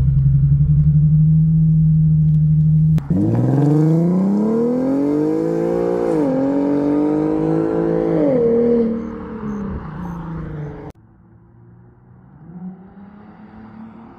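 Infiniti Q50's 3.7-litre V6 through a Remark axle-back exhaust. It holds a steady drone for about three seconds, then accelerates hard with its pitch rising, drops twice on upshifts, and fades. Near the end the sound falls off suddenly to a faint, rising engine hum.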